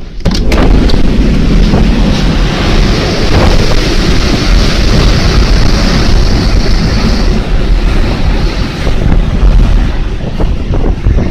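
Typhoon wind blowing hard and buffeting the microphone: a loud, steady rush of noise.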